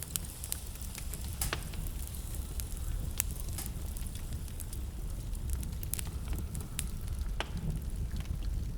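Wood fire in a fireplace, crackling with irregular sharp pops over a steady low rumble of blizzard wind.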